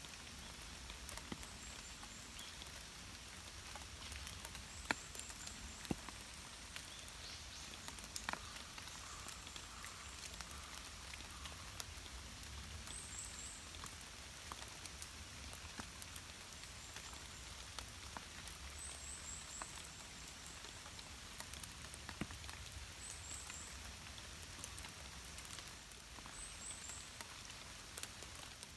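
Steady light rain, with single drops ticking sharply now and then. Every few seconds there is a short high chirp of a few quick notes.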